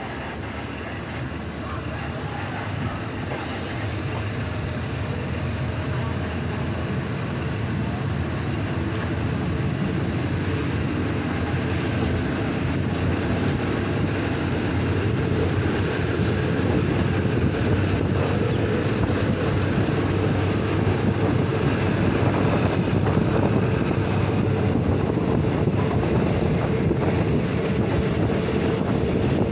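A diesel-hauled passenger train approaching down the line, its steady rumble growing gradually louder, with a steady engine hum coming in over the second half. Wind buffets the microphone.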